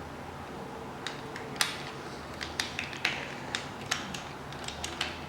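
Irregular sharp metallic clicks and clinks of hand tools and small engine parts being handled during engine assembly, about a dozen taps starting about a second in.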